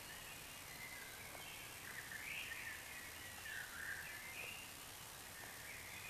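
A songbird singing a varied warbling song over a steady background hiss, its phrases loudest in the middle.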